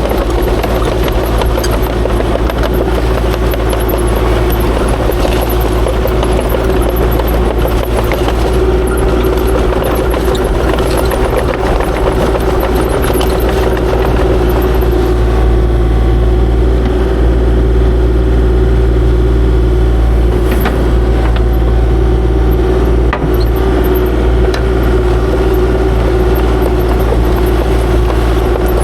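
Kubota KX040-4 mini excavator's diesel engine running steadily, with a steady humming tone over it.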